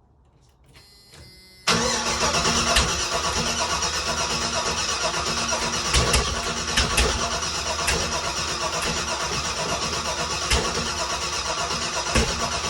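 A 406 small-block Chevy V8 cold-starting after six months of sitting: the starter cranks briefly for under a second, the engine catches about a second and a half in, and it then runs loud and steady with an even pulsing exhaust note through its headers.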